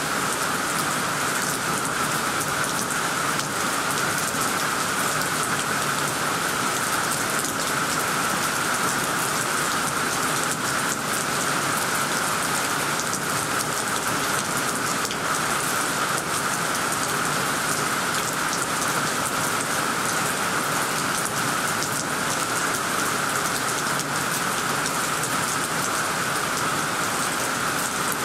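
Heavy rain falling steadily on tree leaves and a tiled roof: a dense, even patter of drops with no break or change in strength.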